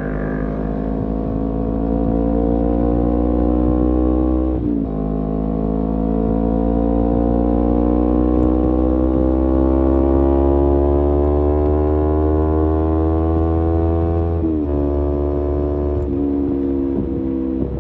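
Kawasaki Z250 parallel-twin engine through an aftermarket SeaPro muffler, under way and pulling through the gears. The pitch drops with an upshift about five seconds in, then climbs gradually for about ten seconds before dropping again with further shifts near the end.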